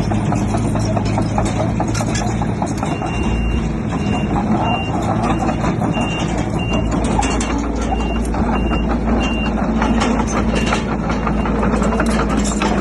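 Diesel engine of a working bulldozer running steadily under dense metallic clatter, with a reversing alarm beeping about twice a second for several seconds in the middle.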